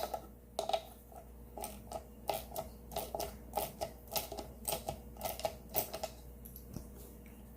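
Ratchet wrench clicking as it backs the loose 7/16 nut off the blower motor's shaft, a quick run of light clicks about three or four a second that stops about six seconds in.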